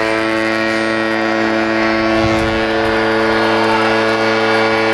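A long, loud horn blast holding one steady low note throughout.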